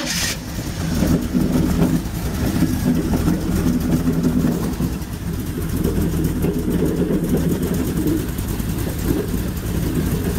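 Airboat engine running at idle just after start-up, turning the propeller through a Franklin 2-to-1 belt box whose upper bearing the owner suspects is going bad.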